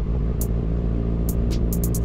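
Kawasaki Ninja inline-four sport bike engine running steadily at an even speed, with short hissy ticks coming every so often over it.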